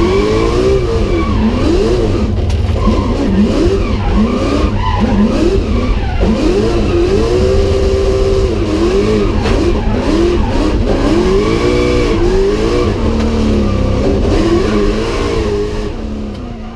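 The 410-cubic-inch engine of an R34 Skyline drift car, heard from inside the cabin, revving up and down over and over as the driver works the throttle through the slides, with a few stretches held at high revs. The sound fades out near the end.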